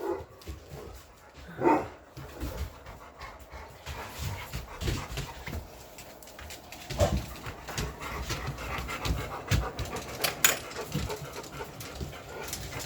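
English Mastiffs panting, with a short whine about two seconds in and a few scattered knocks as they move about.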